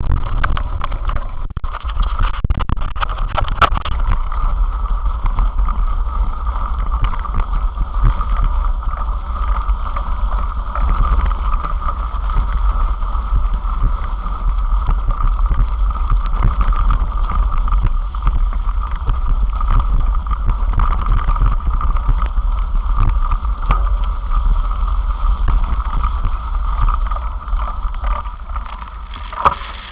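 Wind rumbling on the microphone and rolling noise from a moving bicycle, with a steady mid-pitched hum and scattered knocks and rattles; it starts to quiet just before the end.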